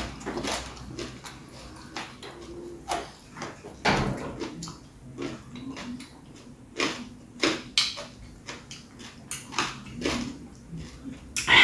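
Close-up mukbang eating sounds: wet chewing and lip-smacking over a mouthful of rice, long beans and bean sprouts in peanut sambal, with short irregular clicks and squelches.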